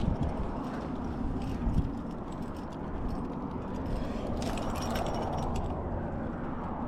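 Metal trad climbing gear (carabiners and protection on a harness) clinking and jangling, with a cluster of clinks about four and a half seconds in, over a steady low rumble.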